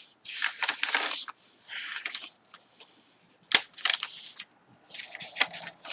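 Paper pages of a handmade journal being turned and rustled in a series of short bursts, with one sharp snap of paper about three and a half seconds in.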